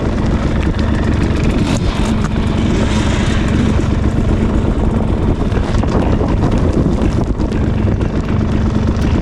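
Dirt bike engine running on a singletrack trail ride, heard from the onboard camera, at a fairly steady pitch with rattle and noise from the bike.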